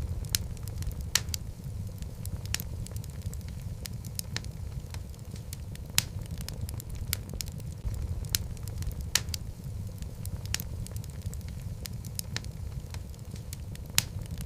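Wood logs burning in a fireplace: a steady low rumble of the flames with irregular sharp crackles and pops, a few of them louder than the rest.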